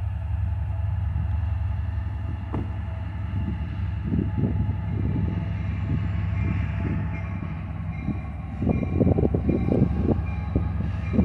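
Wisconsin Southern ballast train passing: the diesel locomotive's engine drones steadily. Then, about eight and a half seconds in, the clatter of wheels on the rails grows louder.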